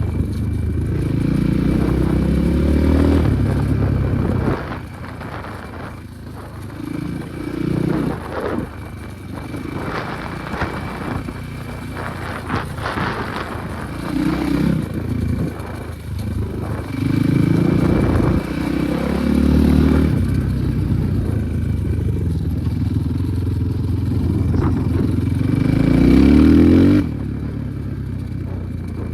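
Enduro motorcycle engine revving up and falling back again and again as it is ridden, with rattling over rough ground. A last climb in pitch near the end stops abruptly.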